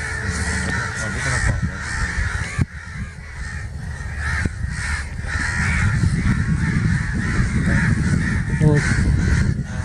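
Crows cawing over and over in a continuous chorus, over a steady low rumble.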